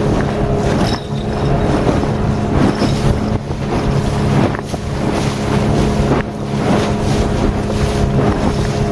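Outboard motor of a Solar 450 Jet inflatable boat running steadily under way, with water rushing past the hull and wind buffeting the microphone.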